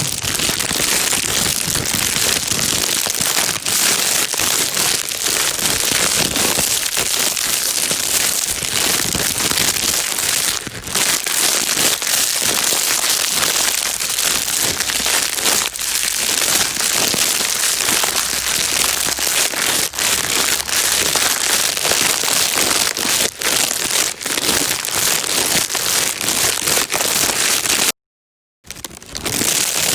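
Plastic bag being crinkled and rustled without pause, a dense crackling. It cuts to silence for about half a second near the end, then resumes.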